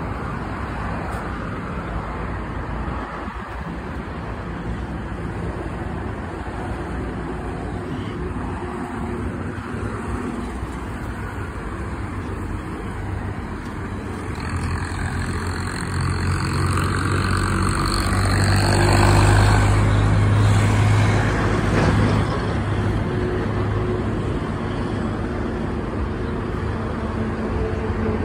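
Car engines and traffic noise around a car park. A nearby car's engine hum grows louder about halfway through, is loudest about two-thirds in, then eases off.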